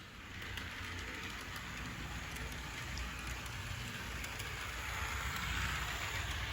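Tyco HO-scale GE switcher model locomotive running along the track, its electric motor whirring and wheels rolling on the rails, with faint clicks. It grows steadily louder as it comes closer, loudest near the end.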